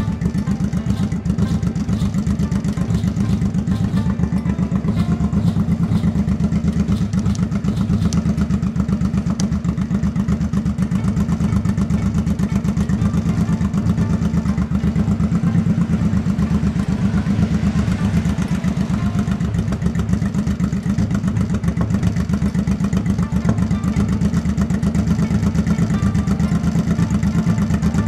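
A motorcycle engine idling steadily with an even, rapid beat of firing pulses, with a few light clicks over it in the first several seconds.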